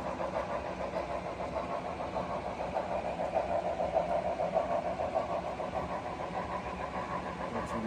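HO scale model passenger train running along the track, a steady mechanical hum.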